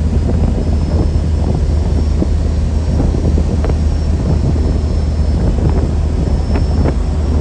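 A vehicle engine running steadily with a low hum, with wind buffeting the microphone and scattered small ticks.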